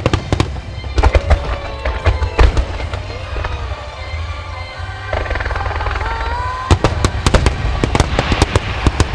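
Starmine fireworks display: repeated sharp bangs of shells bursting over a low rumble, coming thick and fast in a rapid cluster near the end, with music playing alongside.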